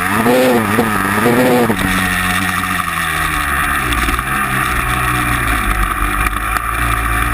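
Vehicle engine revving up and down in quick pulses, about two a second, then dropping after about two seconds to a steadier, lower running note that slowly sinks further.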